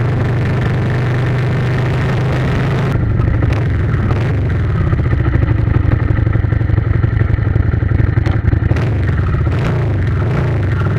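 Motorcycle engine running under way, a steady low drone with rapid pulsing that grows louder and rougher for a few seconds midway.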